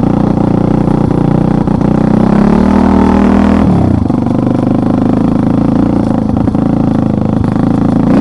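Motorcycle engine running under way, with the revs climbing for a second or so about two seconds in and then dropping off sharply.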